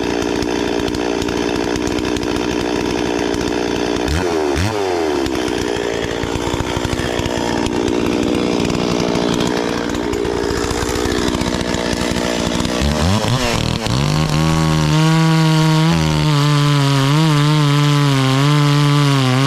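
Chainsaw running at high revs, its pitch dipping briefly and recovering about four seconds in. Near the end the pitch drops and holds lower, as the engine bogs under load in the cut.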